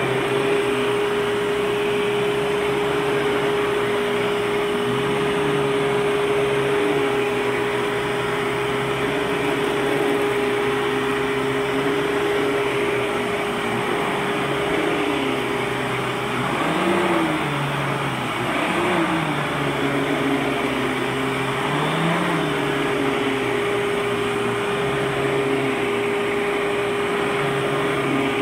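1994 Eureka The Boss World Vac canister vacuum cleaner running, its motor giving a steady whine with a lower tone that rises and falls several times in the middle.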